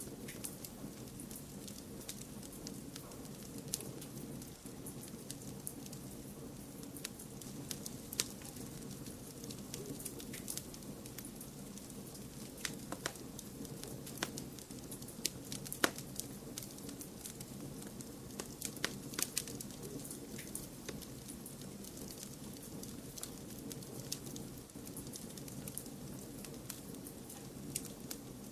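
Wood fire crackling and popping in a fireplace, irregular sharp pops over a steady low rushing hiss of white noise.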